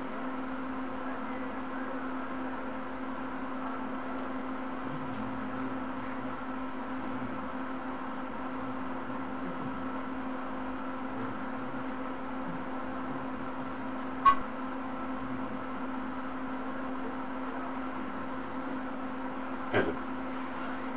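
Steady room hum at one fixed low pitch, like a machine or electrical equipment running, broken by two sharp clicks about five seconds apart, the first a little past the middle and the second near the end.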